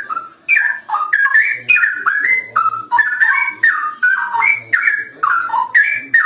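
Straw-headed bulbul singing one long, loud phrase of rich, bubbling, gliding whistled notes that tumble up and down in pitch, stopping just before the end.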